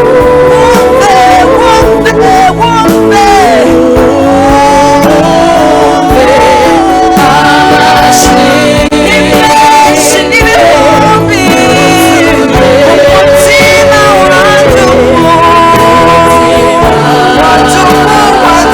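Gospel worship song: voices singing a melody over instrumental backing with a steady beat.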